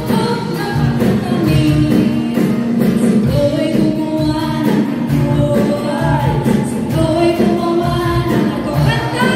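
Music with a group singing along, loud and steady, with a beat underneath.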